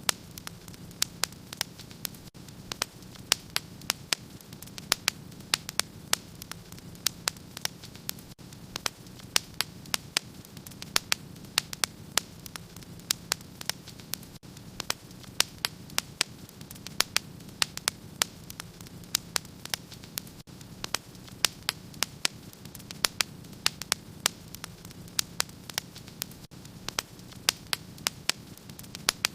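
Fire in a fireplace crackling: a quick, irregular stream of sharp pops and snaps, several a second, over a soft steady hiss and a low hum.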